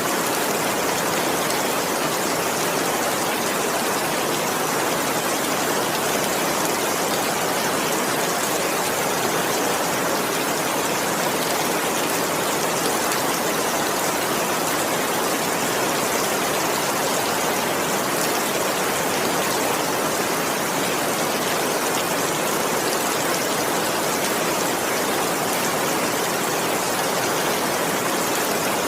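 Steady, even rain, a continuous hiss of many drops with no single drop or thunder standing out.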